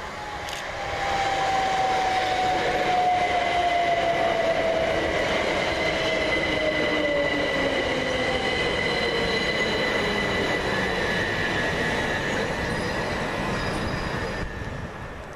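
Southern Class 377 Electrostar electric multiple unit running through the station, its traction motor whine falling slowly in pitch as it slows, over a steady high whine and wheel-on-rail noise. The sound builds about a second in and dies away near the end.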